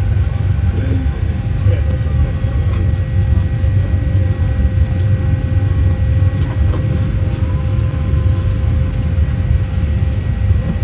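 Steady low rumble of a vehicle or aircraft interior, with a few faint steady tones above it.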